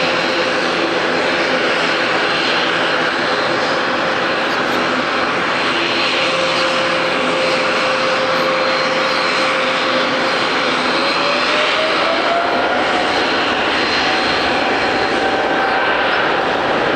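Widebody jet airliner's engines running with a loud, steady roar and a whine on top. About ten seconds in, the whine rises in pitch as the engines spool up.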